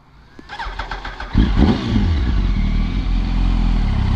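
Yamaha R1 sport bike's inline-four engine coming in loudly about a second and a half in, then running steadily.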